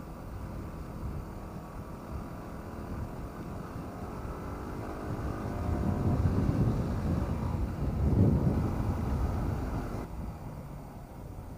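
Wind buffeting the microphone of a Yamaha WR250R rider on the move, with the bike's single-cylinder engine running under it. It swells from about five seconds in and is loudest near eight seconds, then eases off.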